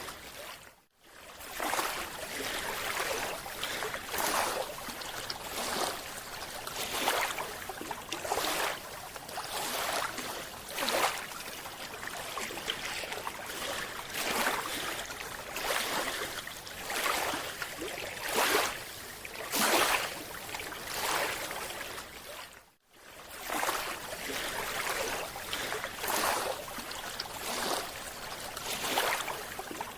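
Underwater water noise heard through an underwater camera's housing: a steady rush that swells in repeated surges about every one to two seconds, dropping out briefly about a second in and again near the end.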